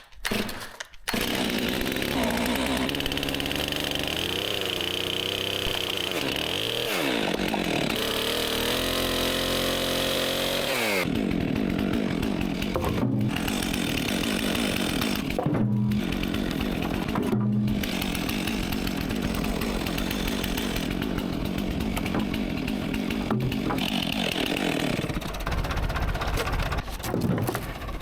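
Chainsaw engine running loud from about a second in, its pitch rising and falling as it revs, with a sharp drop in pitch about eleven seconds in.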